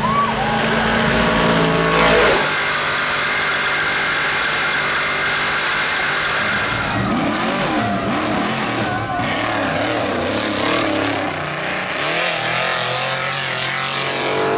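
Trophy Truck engine running hard under race load, mixed with tyre and road noise. The revs change several times, and there is a loud jolt about two seconds in.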